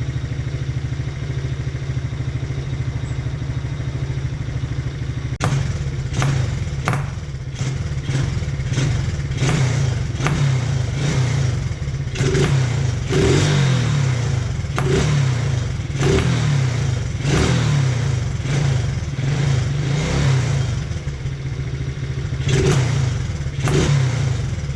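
Taotao 125cc ATV's single-cylinder four-stroke engine idling, then blipped repeatedly from about five seconds in, with sharp pops on the throttle. The owner traces the popping to the carburetor running too lean.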